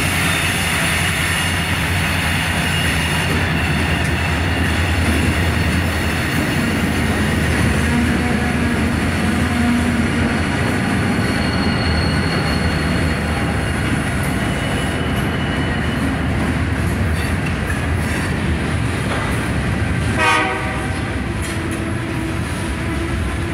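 Union Pacific freight train passing close by: the diesel locomotives' engines running, then loaded lumber flatcars rolling past with their wheels on the rails in a steady rumble. The locomotive horn sounds near the start, and a brief falling wheel squeal cuts in about twenty seconds in.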